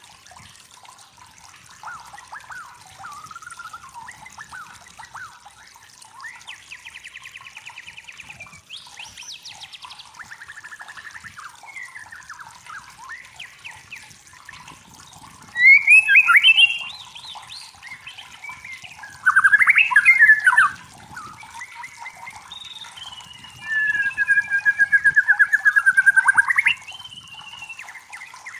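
A songbird singing a varied song of whistles, fast trills and sliding notes, with three louder phrases in the second half, over a faint steady hiss.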